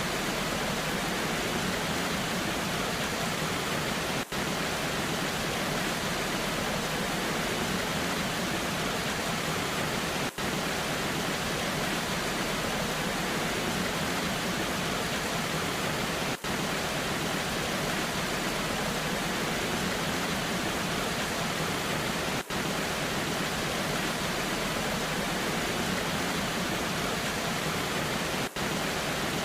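Waterfall in the rain: a steady, even rush of falling water with no let-up, broken by a very brief dip in level about every six seconds.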